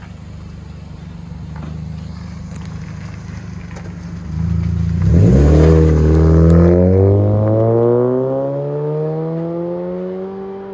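2007 Pontiac G5's 2.2-litre four-cylinder, exhausting through a Vibrant bottle resonator with the rear muffler deleted, heard from inside the cabin. It idles at first, then about four seconds in the engine note jumps and climbs steadily as the car accelerates hard through a gear.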